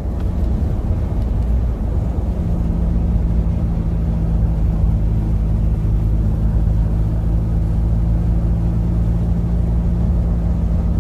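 Truck engine running steadily while driving, with road noise: a constant low drone.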